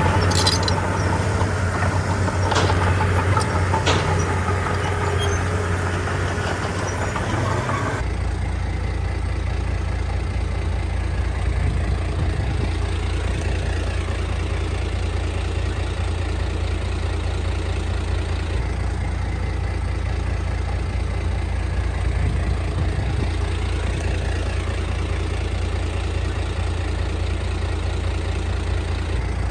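Heavy diesel machinery engine running, with a few sharp knocks in the first few seconds. About eight seconds in the sound changes abruptly to a steady, low engine idle.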